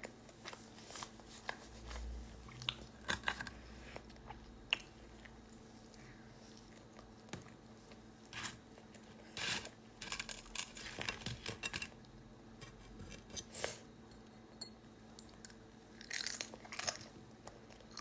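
Close-up chewing and biting of food, with irregular crunches and small mouth clicks spread through the quiet.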